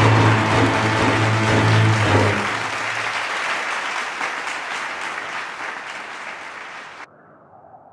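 Audience applause fading slowly and cut off suddenly near the end, with the music under it stopping about two seconds in.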